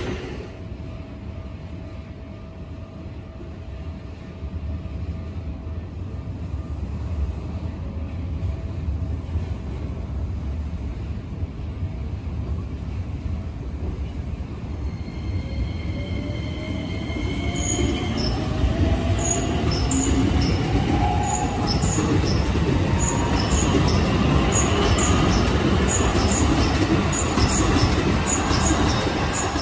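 A Keikyu 2100-series electric train approaching and running past the platform: its rumble builds steadily over the second half, with a rising whine and a regular run of clicks as the cars go by. Before it, the fainter running noise of the train that has just left fades.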